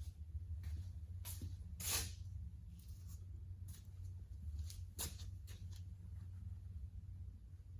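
Scattered light clicks and knocks of metal parts and hand tools being handled, over a steady low hum; the loudest is a short scrape about two seconds in.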